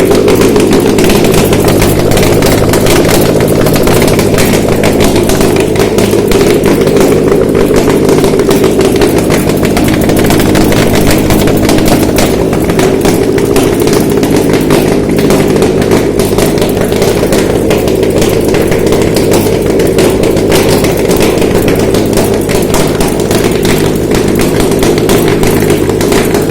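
Subaru EJ253 2.5-litre flat-four boxer engine running steadily at an even speed on a test stand, with a rapid ticking clatter over the engine note.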